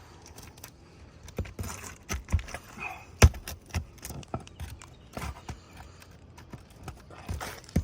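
Irregular knocks, clicks and scrapes of a tool prying staples out of asphalt roof shingles, with one sharp knock a little past three seconds in.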